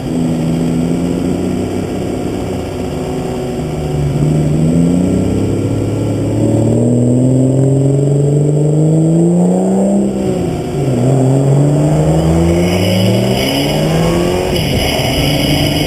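Vehicle engine under hard acceleration on a racetrack. Its pitch climbs steadily for several seconds, drops sharply at an upshift about ten seconds in, then climbs again and falls once more near the end.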